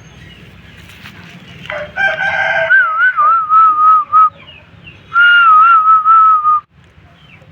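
Aseel rooster crowing twice: a long call that wavers in pitch and settles, then, after a short break, a second shorter wavering call.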